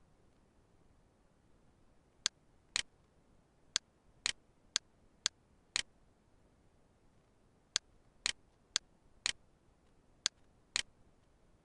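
Computer mouse clicking, about a dozen sharp clicks in two runs roughly half a second apart, with a pause of about two seconds between the runs.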